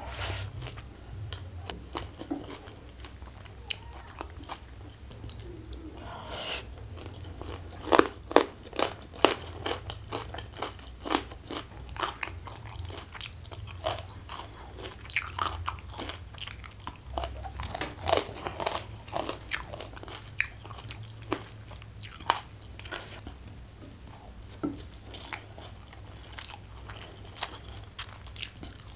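Close-miked chewing and crunching of food, with many sharp crunchy bites. The loudest crunches come about eight seconds in and again around eighteen seconds.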